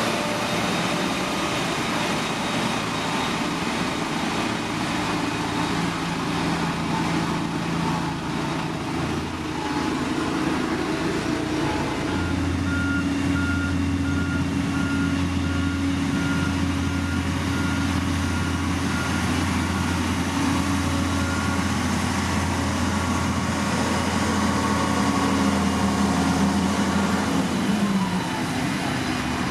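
Diesel engines of heavy construction machinery running steadily, with a deeper engine drone coming in about twelve seconds in. A reversing alarm beeps at an even pace, about once or twice a second, for roughly eight seconds in the middle.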